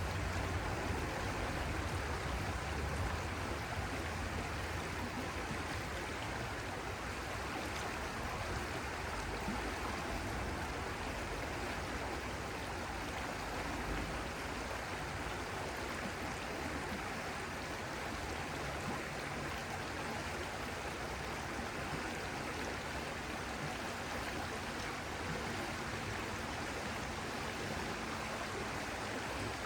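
Water flowing in a stream, a steady even rushing with no breaks.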